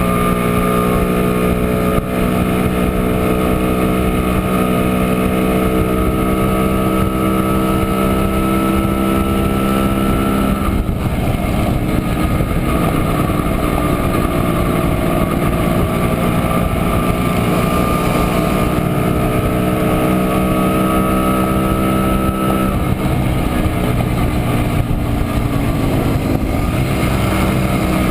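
Montesa Impala Comando 175 cc two-stroke single-cylinder engine under way, running steadily with its pitch slowly climbing. The pitch drops sharply twice, about eleven seconds in and again about twenty-three seconds in, and each time it climbs again from there.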